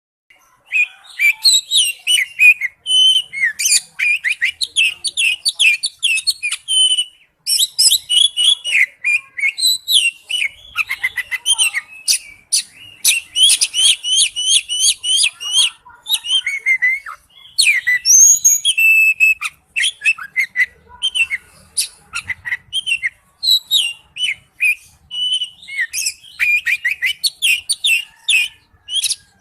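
A songbird singing a long, varied song of rapid high notes and trills, phrases changing constantly with only brief pauses.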